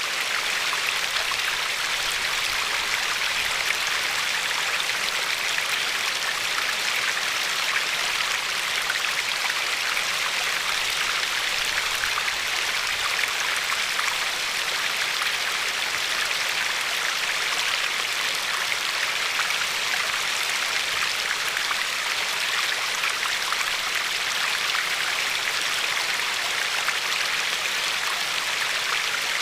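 A river flowing steadily over pebbles, a constant rushing with fine splashing and trickling.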